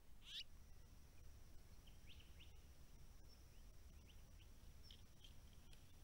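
Faint bird calls: a quick downward-sweeping chirp about half a second in, then a scattering of brief, soft chirps, over a faint steady high tone and low rumble.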